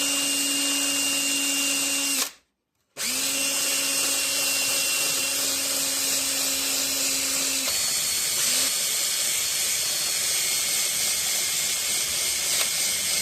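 Electric drill spinning a barrel sanding drum against a pistol frame: a steady motor whine over the hiss of sanding. It cuts off briefly about two seconds in, starts again, and its pitch changes about halfway through.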